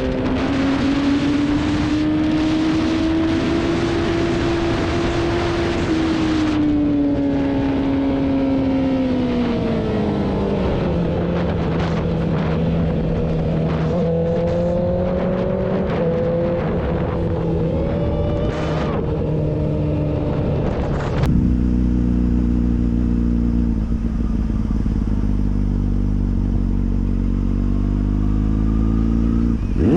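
Motorcycle engine running at speed with heavy wind rush over the microphone; after about six seconds the wind eases and the engine note falls as the bike slows. About two-thirds of the way through, the sound changes suddenly to a lower, steady engine note with a deep rumble.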